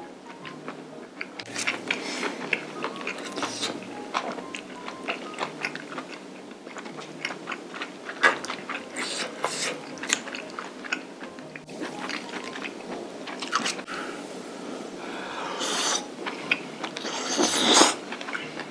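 Close-miked mukbang eating: a person chewing mouthfuls of spicy stir-fried webfoot octopus and beef brisket, with wet, sticky mouth sounds and small clicks. The loudest burst comes near the end. Light background music plays underneath.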